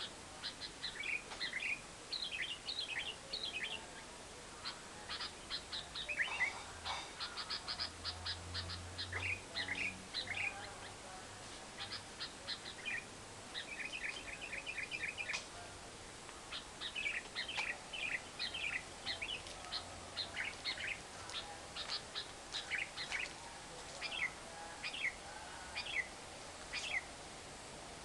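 Lovebird singing its long 'ngekek' chatter: rapid strings of short, high, sharp chirps in runs of a second or two, broken by brief pauses.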